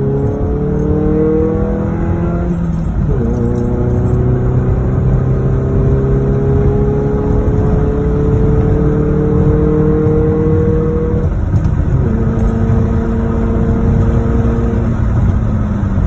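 2004 Ford Focus ZX3's four-cylinder engine, fitted with a cold air intake, pulling under acceleration through the gears, heard from inside the cabin. The engine note climbs steadily in each gear and drops sharply at upshifts about three seconds in and again about twelve seconds in.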